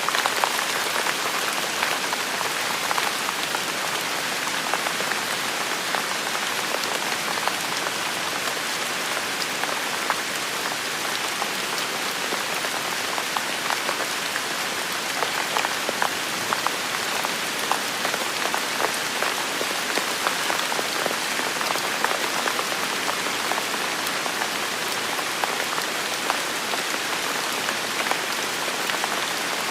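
Steady rain falling, with many close drops ticking on hard surfaces.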